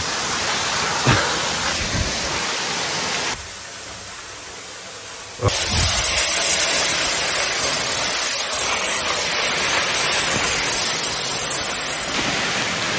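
Steady rushing of water from a nearby waterfall. It drops quieter for about two seconds a few seconds in, then comes back louder and carries on evenly.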